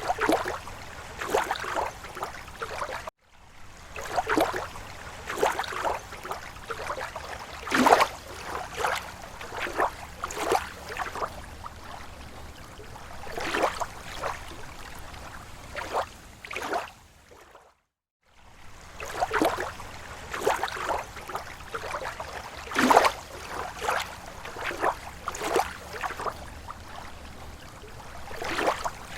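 Lake water lapping against the shore in slow waves: irregular small splashes and slaps, roughly one every second or so. The sound cuts out to silence twice, briefly.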